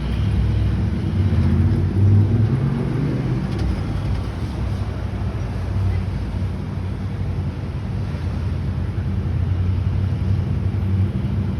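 Large vehicle engine running steadily, a low drone that swells briefly about two seconds in.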